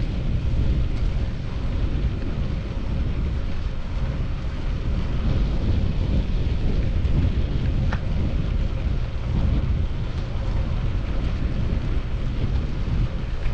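Wind buffeting the microphone of a chest-mounted GoPro Hero 10 on a moving bicycle: a steady, loud low rumble.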